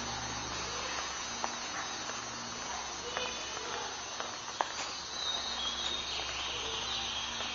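Steady background hum and hiss of a large hall, with faint distant voices and a few light clicks.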